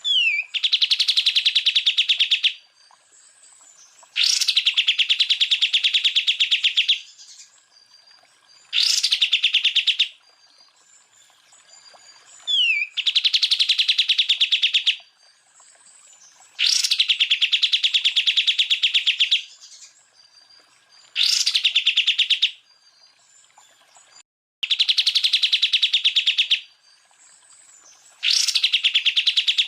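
Cucak ijo (green leafbird) song in its 'tembakan' style: about eight rapid-fire trills of fast, evenly pulsed notes, each one to three seconds long, coming every four seconds or so. Several open with a quick sweeping whistle.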